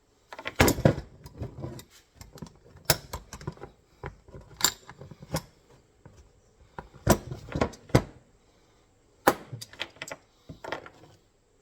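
Steel MB 550 foothold trap being handled and set to check its pan tension: a dozen or so sharp, irregular metal clicks and clanks as the jaws, dog and pan are worked.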